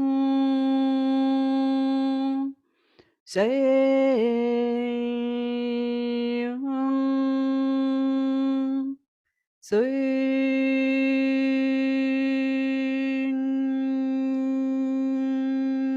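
A human voice humming or toning one steady held note, in long breaths. It breaks off briefly about three seconds and nine seconds in, and each new note slides up into pitch.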